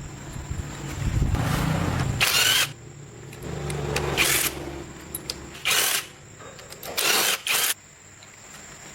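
A power tool run in short bursts, about five times, each a fraction of a second long.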